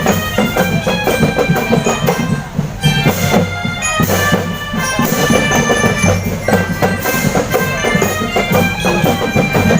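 Marching drum band playing: drums beating steadily under a melody of several held wind-instrument notes.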